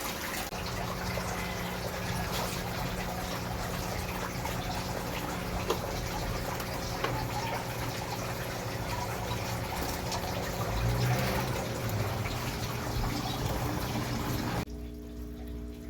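Water running and splashing over a steady hum; the water sound stops abruptly near the end, leaving only the hum.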